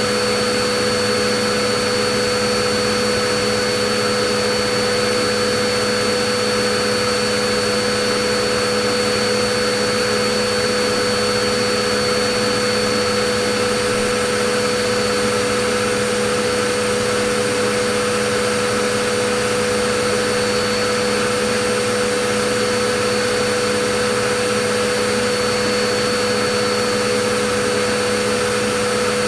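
Vacuum cleaner running steadily: an even hiss with a constant motor whine made of several fixed tones, unchanging throughout.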